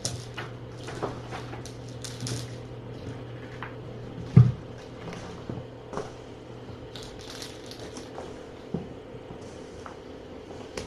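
A cat crunching dry kibble: irregular crunches and clicks, with one louder thump about four seconds in, over a steady low hum.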